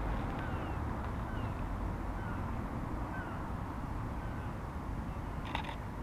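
Outdoor background of a steady low rumble, with a bird giving short, thin, downward-sliding calls about twice a second. A single short click comes near the end.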